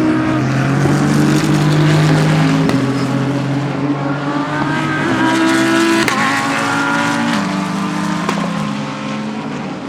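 GT3 race cars passing at speed, several engines heard together, their notes jumping in pitch a few times as they shift gear. Loudest about two seconds in and again around six seconds, then fading near the end.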